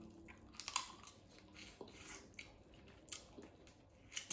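Quiet close-mic eating: a person biting and chewing a piece of boiled seafood, with a handful of soft, scattered mouth clicks and smacks.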